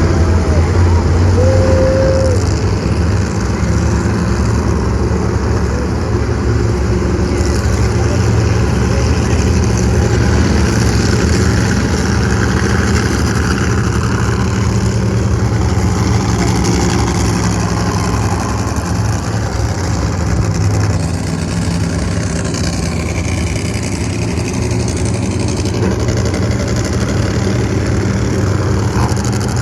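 Monster truck engine idling with a steady low hum, holding at a constant pitch with no big revs.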